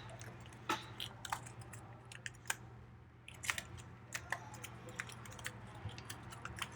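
Folded paper being handled and pressed together: scattered light crinkles and clicks of paper, irregular and brief, over a low steady hum.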